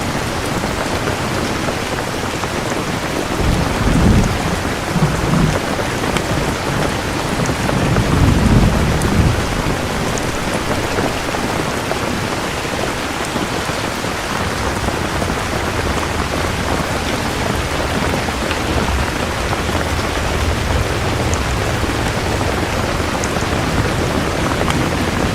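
Steady rain falling, with thunder rumbling in low swells about four and eight seconds in, then a softer distant roll.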